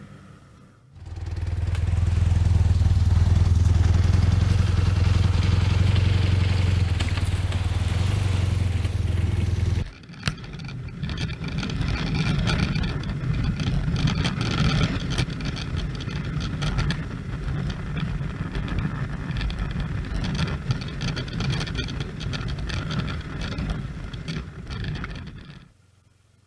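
Motorcycle engine running under way. It starts abruptly about a second in with a steady low hum, changes character at a cut about ten seconds in, and stops abruptly near the end.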